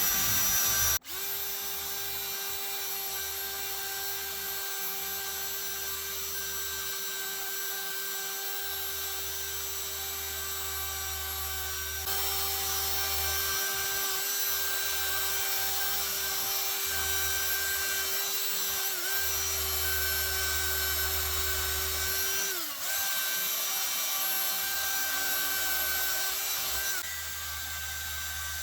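Electric rotary power tool working a rusty iron ice claw, its motor running with a steady whine. It breaks off briefly about a second in, and its pitch sags twice later on as it is pressed into the work.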